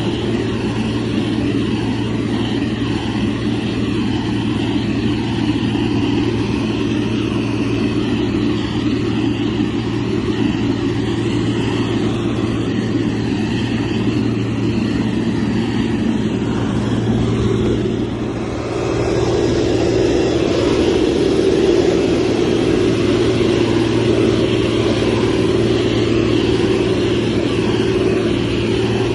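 Motor grader's diesel engine running steadily with a constant low hum. It dips briefly about two-thirds of the way through, then carries on slightly louder.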